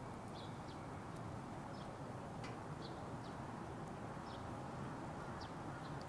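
Wood fire burning in a Petromax Atago fire pit: small sharp crackles, about two or three a second, over a steady low rush.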